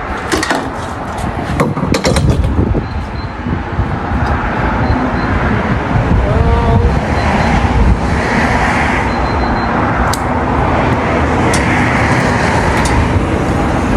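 Road traffic noise with cars passing, two of them swelling up and fading away in the second half, and a few sharp clicks in the first few seconds.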